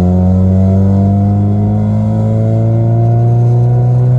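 Toyota car engine droning from inside the cabin as the car gathers speed in gear, its pitch rising slowly and steadily.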